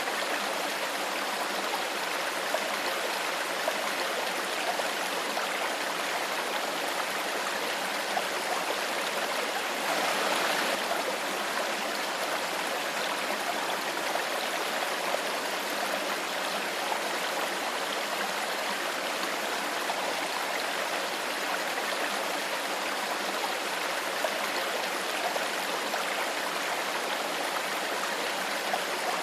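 Shallow stream flowing steadily, a constant babbling rush of water with small splashes, swelling slightly about ten seconds in.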